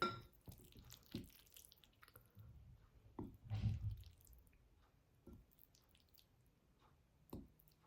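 Scattered soft clicks and knocks of handling, with a louder thump a little over three seconds in and another sharp knock near the end.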